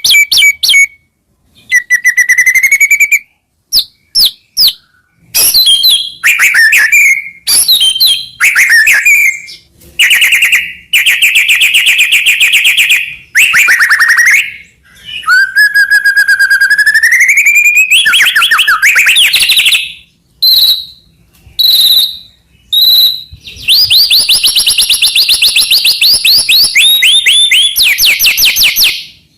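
White-rumped shama (murai batu) singing loudly: a long run of varied phrases of fast repeated notes, rattling trills and gliding whistles, some rising, separated by short pauses.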